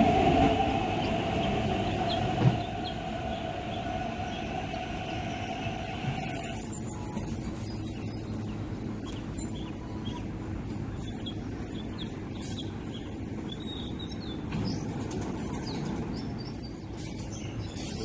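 MTR East Rail Line electric trains at a platform. A steady whine comes from a train pulling in and cuts off about six seconds in. A low steady rumble from a train standing at the platform follows, with a few faint bird chirps.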